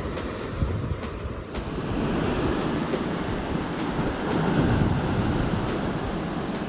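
Atlantic surf breaking on a rocky shore, a wave surging louder in the middle, with wind buffeting the microphone.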